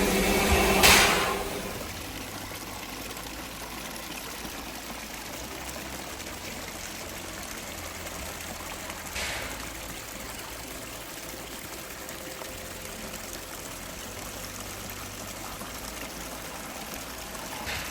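Steady rush of running water, after a brief loud burst of noise about a second in.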